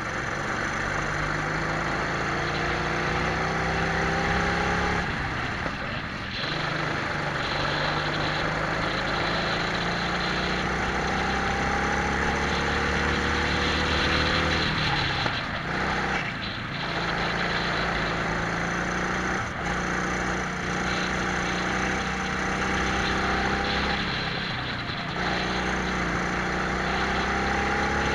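Twin-engine Prokart engines running at racing speed, revving steadily higher along the straights and dropping off three times, about every ten seconds, as the kart slows for corners, with wind rushing over the onboard microphone.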